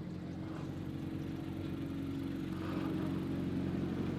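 A car engine running steadily at low revs, a low even hum that grows slightly louder.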